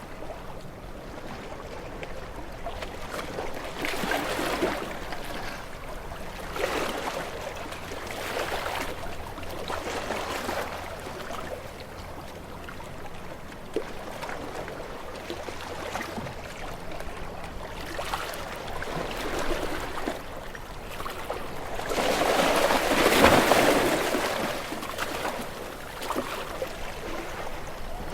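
Small waves washing onto a shore, each one swelling and falling back, several times in turn; the largest breaks about three quarters of the way through.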